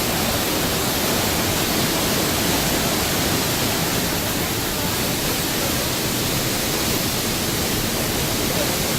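Pailón del Diablo waterfall: a loud, steady, unbroken rush of falling water.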